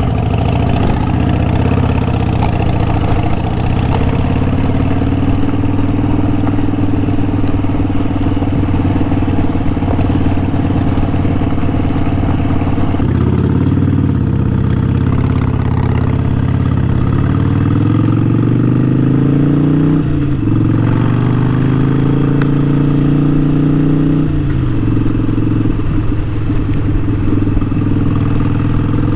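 Harley-Davidson Sportster 1200's air-cooled V-twin engine running under way. It holds steady at first, then about halfway through its pitch climbs as the bike accelerates, dropping back sharply twice near the end as it shifts up a gear.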